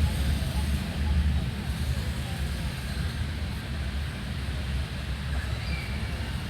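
Outdoor park ambience: a steady low rumble of distant traffic or wind, with a few faint bird chirps near the end.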